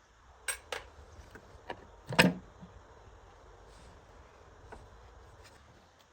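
Sharp clicks and taps of metal parts or tools being handled on a generator, with one louder clunk a little over two seconds in.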